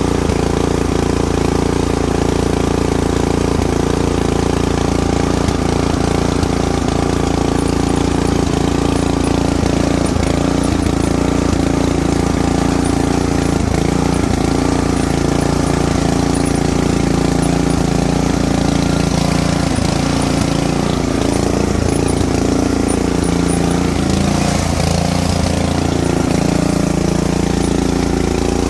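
Riding lawn mower's engine running steadily. Its pitch sags briefly about three quarters of the way through, then settles back.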